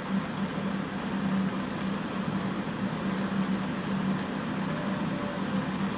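Steady rushing of fume-extraction fans with a constant low motor hum, mixed with the hiss of a soldering torch flame heating the piece to burn off flux.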